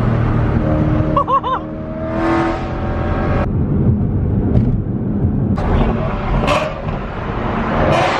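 BMW E92 M3's 4.0-litre V8 running through a straight-piped Valvemaster catback exhaust with no resonators. The revs rise about two seconds in and fall off suddenly about a second and a half later, with short sharp flares of exhaust noise later on.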